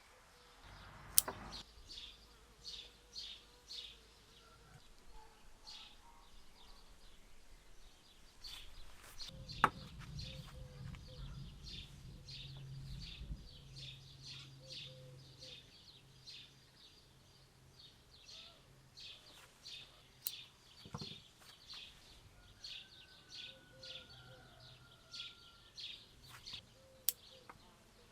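Small birds chirping in quick runs of short, high notes, with a few sharp clicks and a low hum for several seconds in the middle.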